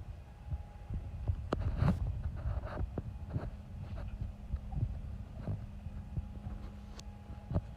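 Low throbbing hum of machinery in a boat's engine room, with a steady drone, broken by scattered sharp knocks and clicks.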